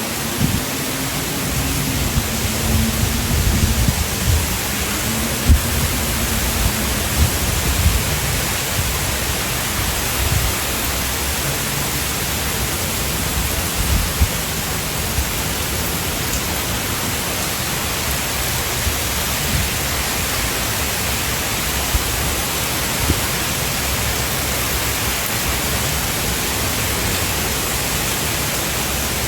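Typhoon wind and driving rain: a steady dense rush, with gusts buffeting the microphone in the first several seconds.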